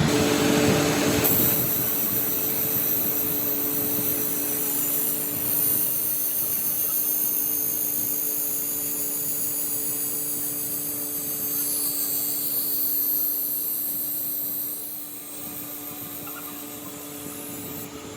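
Machine-shop machinery running steadily while cylinder sleeves are made, a mix of high whine and hum over noise that drops a little near the end.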